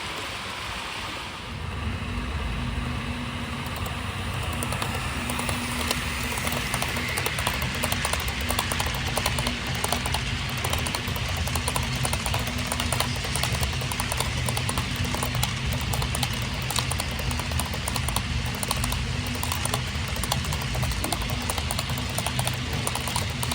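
Model train running on a layout: a steady low motor hum with a fast patter of small clicks from the wheels on the track, setting in about a second and a half in.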